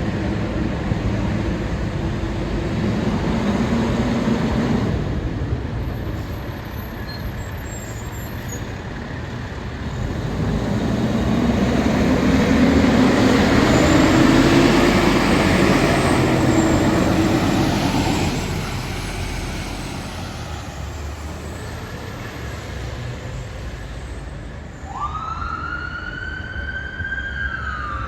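Road traffic and heavy vehicle engine noise, growing louder in the middle as a large vehicle passes and then fading. Near the end an emergency vehicle's siren starts a wail, rising quickly and then falling slowly.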